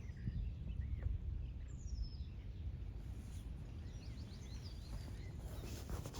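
Birds calling faintly: a short downward-sliding chirp about two seconds in and a quick run of high notes a couple of seconds later, over a low steady rumble.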